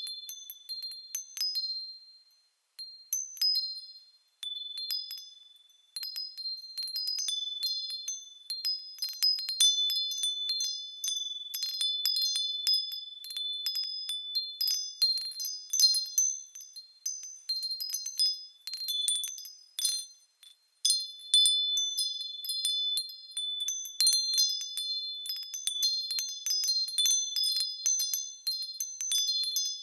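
Small high-pitched bells swaying and ringing in an irregular, overlapping jingle, a few clear tones sustaining between strikes, with brief lulls a few times.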